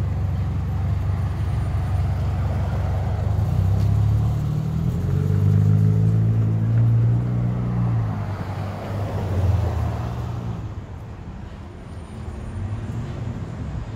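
A motor vehicle's engine running close by, with a low rumble that grows louder about four seconds in and fades after about ten seconds, as when a car passes or pulls away.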